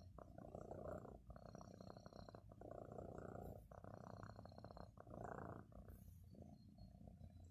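Domestic cat purring softly, in pulses about a second long, one after another with short breaks between them.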